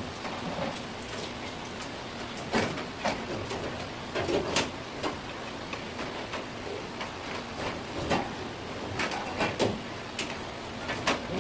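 Knife work on a cutting board while filleting rock bream: irregular knocks and clicks, a few in quick succession, over a steady hiss.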